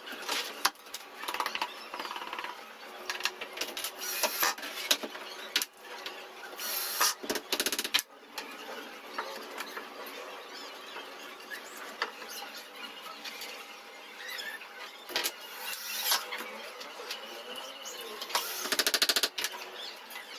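Workshop noise from cabinet making: irregular knocks and clicks with squeaks, and about a second of rapid buzzing strokes from a small power tool near the end.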